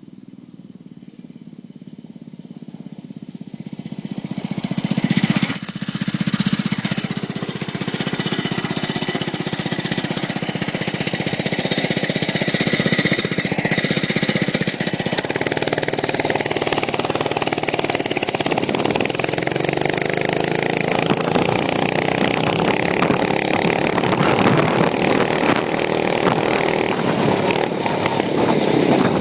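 The small 5 hp engine of a mini bike, running. It grows louder over the first five seconds, then runs steadily with small shifts in pitch.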